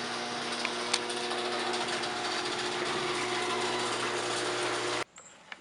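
Electric garage door opener running as the door opens: a steady motor hum and whir that cuts off suddenly about five seconds in, when the door reaches its stop.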